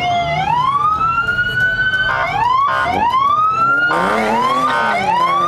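Police car siren wailing, its pitch sweeping up three times, broken by several short horn-like blasts.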